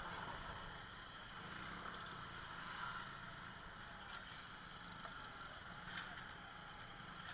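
Faint, steady hum of a motor scooter's small engine running, with road and wind noise and a few light ticks.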